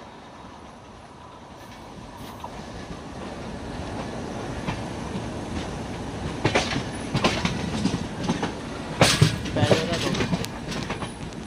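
Train running on the track with a steady rumble that grows louder, wheels clattering over rail joints in sharp clacks during the second half.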